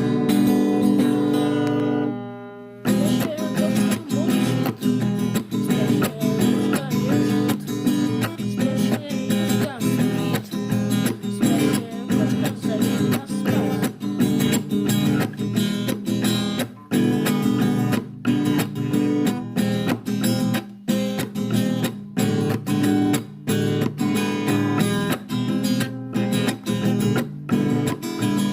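Instrumental music: acoustic guitar strumming a steady rhythm. A held chord dies away about two and a half seconds in, then the strumming comes back in.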